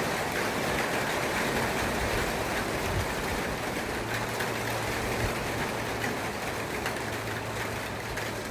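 Heavy rain pouring down, a steady hiss. A faint low hum joins about four seconds in.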